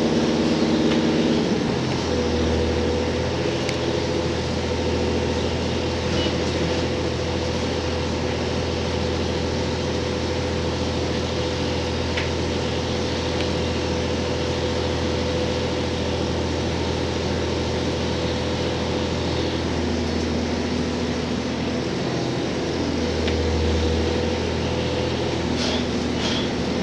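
Cabin sound of a JR Hokkaido H100 (DECMO) diesel-electric railcar: a steady low engine drone with a steady whine above it. The pitch pattern shifts about a second and a half in and changes again around twenty seconds in.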